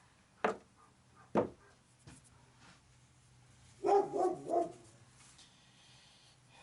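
A dog barking: two short single barks in the first second and a half, then a quick run of three barks about four seconds in.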